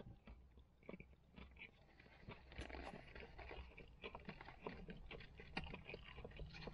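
Faint close-up chewing of chips and chicken popcorn, with the crackle of a paper-lined cardboard food box and a plastic fork scraping inside it. The clicks and rustles grow busier from about two seconds in.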